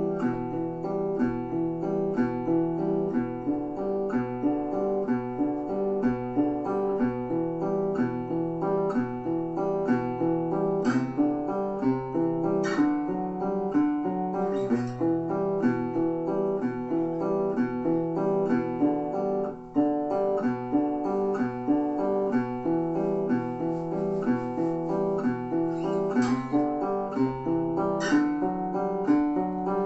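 Acoustic guitar music: a song's instrumental intro, picked and strummed in a steady rhythm.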